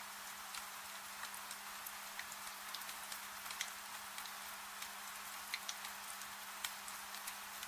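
Wood fire crackling with irregular sharp pops over a steady hiss of rain, with a faint low steady hum underneath.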